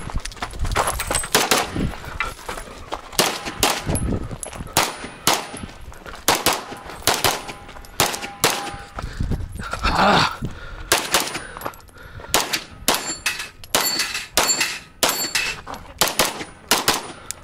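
Rapid pistol fire from a Limcat 9mm Major Open-division race gun, shots mostly in quick pairs and short strings with brief pauses between them. Some hits are followed by a short metallic ringing from steel targets.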